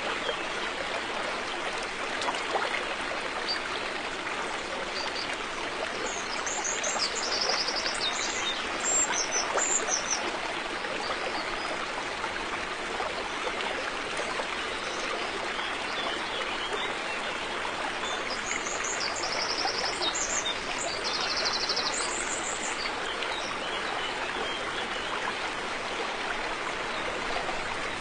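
A river running steadily over rocks, with birds chirping in short high phrases twice, about a quarter of the way in and again past two-thirds.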